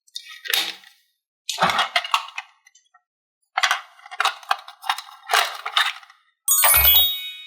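Small metal and plastic toy pieces clinking and rattling in about six short separate bursts, with a brief ringing, chime-like sound near the end.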